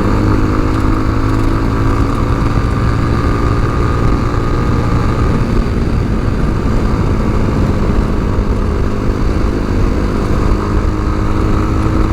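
Tao Motor TBR7 dual-sport motorcycle engine running at a steady cruise under wind noise, heard from the rider's position, freshly valve-adjusted with its carburettor cleaned and running well.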